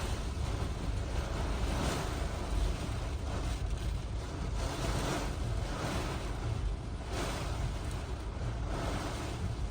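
Hurricane-force wind gusting hard, a rushing hiss that swells and eases every second or two over a heavy low rumble of wind buffeting the microphone.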